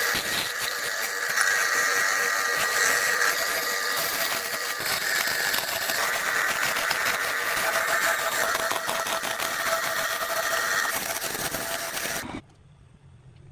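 A power tool running steadily with a dense, rattling hiss, cutting off abruptly about twelve seconds in and leaving only a faint low hum.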